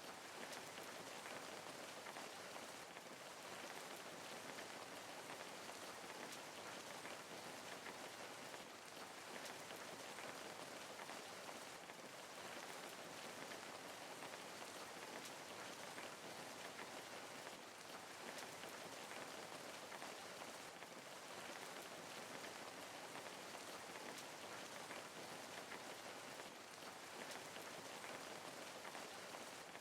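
Steady rain falling, a soft even hiss with fine patter of drops.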